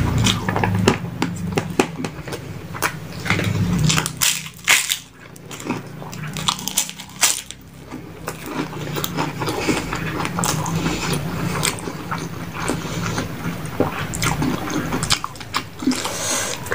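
Close-up eating sounds: a person chewing and biting into crisp fried food, with many sharp, irregular crunches.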